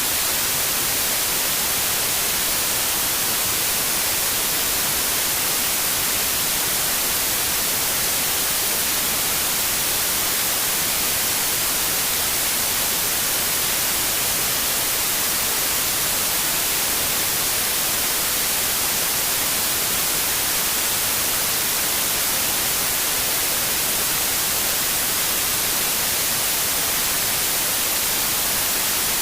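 Steady synthetic white noise: an even, unchanging hiss weighted toward the high frequencies.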